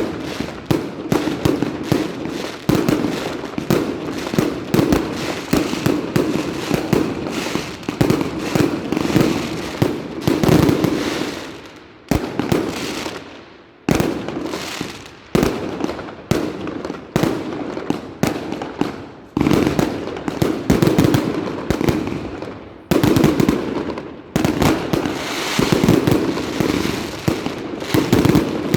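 Fireworks going off in a rapid, near-continuous barrage of bangs and crackles. The firing thins out about twelve seconds in, then picks up again.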